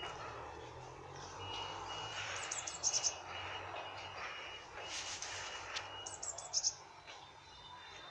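A small songbird sings two short phrases of quick high notes, about three seconds apart.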